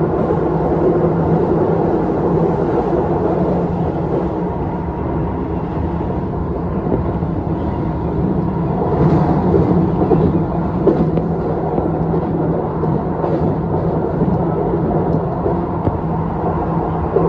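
Electric commuter train running on the track with a steady rumble and motor hum, and a few brief clacks partway through.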